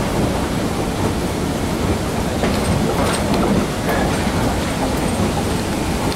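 Steady rumble of a train ride behind a geared Shay steam locomotive, heard from the side of a moving coach: wheels rolling on the rails with a few faint clicks.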